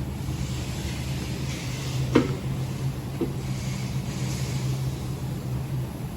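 A vehicle running with a steady low hum and road noise, with a sharp knock about two seconds in and a lighter one a second later.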